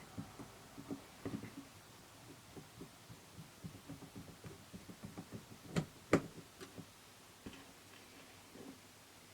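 Small plastic clicks and taps from a car instrument cluster's odometer gear assembly being worked on by hand while the gears are replaced. Two louder knocks come about six seconds in.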